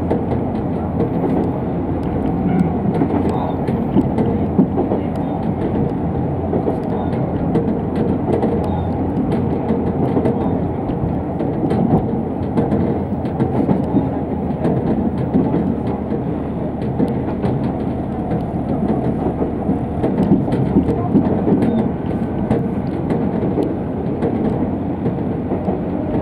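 Diesel railcar running along the track, heard from inside the car: a steady rumble of wheels on rail and engine, with faint clicks scattered through it.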